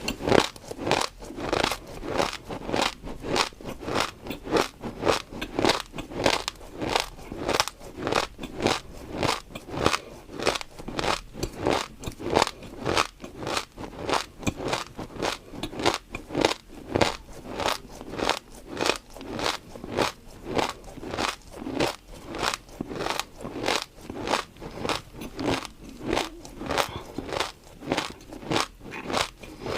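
Close-miked crunchy chewing, a steady rhythm of about two crisp crunches a second.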